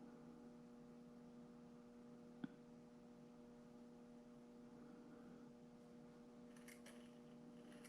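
Near silence with a faint, steady electrical hum. A single sharp click comes about two and a half seconds in, and a few faint ticks come near the end.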